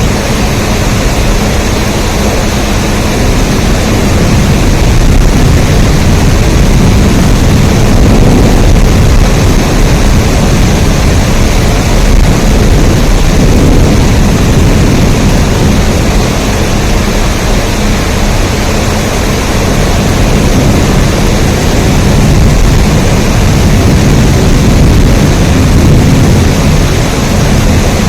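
Heavy rain: a loud, steady, even wash of noise with a strong deep rumble underneath and no separate drops or events standing out.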